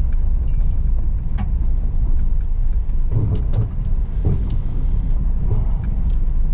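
Car driving slowly over a rough rocky road: a steady low rumble of engine and tyres, with a few sharp knocks and rattles as the car rides over the stones.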